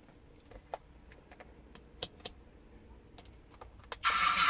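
Scattered small plastic clicks from handling the toy tank, then about four seconds in a mini radio-control tank's small electric drive motor starts up with a steady whirr.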